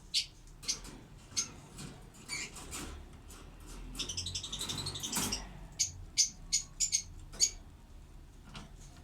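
Lovebirds calling in short, sharp high-pitched chirps, with a burst of rapid chatter about four seconds in.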